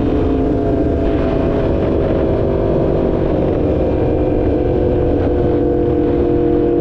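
2016 Yamaha R1's crossplane inline-four engine running steadily at cruising speed in one gear, its pitch sagging slightly as it goes.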